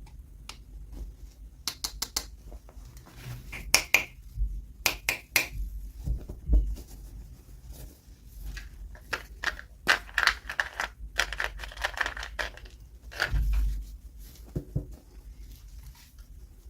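Toy packaging being handled and opened at close range: a string of sharp clicks and taps, with bursts of crinkling and tearing, busiest around the middle and a little before the end.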